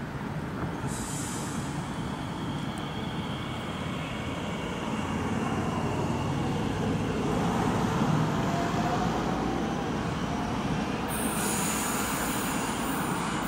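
Electric train running on the tracks, its rumble growing steadily louder, with a faint rising whine around the middle. High-pitched wheel squeal starts near the end.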